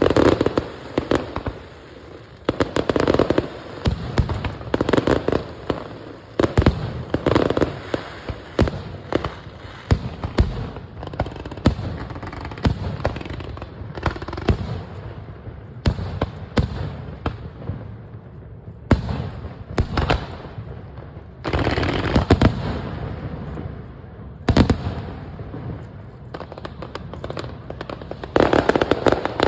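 Aerial fireworks show: a steady string of sharp bangs with crackle, rising to heavy volleys of bursts every few seconds and thinning to scattered single bangs in the middle.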